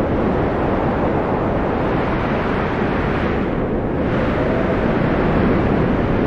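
Strong wind blowing steadily in a dense, low rush, easing in its upper hiss for a moment midway before rising again.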